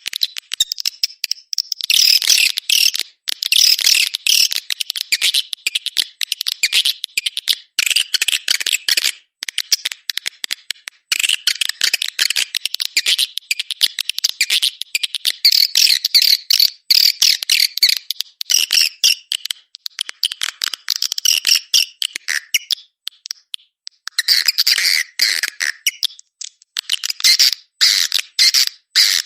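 Swiftlet calls: rapid, dry chattering twitters in bouts of a few seconds, broken by short pauses.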